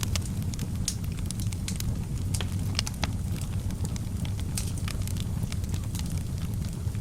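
Wood fire in a fireplace crackling: frequent irregular sharp pops and snaps over a steady low rumble of the burning fire.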